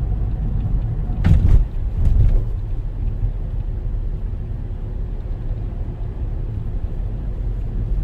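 Steady low road and engine rumble of a car driving, heard from inside the cabin, with two brief louder thumps about a second and two seconds in.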